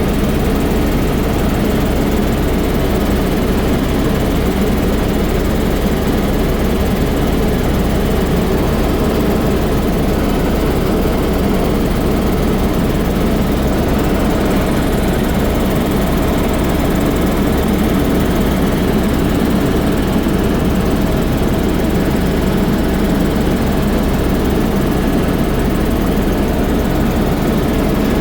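Sightseeing helicopter's engine and rotor running steadily in flight, a constant loud drone.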